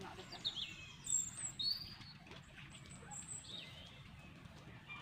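Birds chirping: a scattering of short, high chirps and whistles, some falling in pitch, over a faint steady outdoor background.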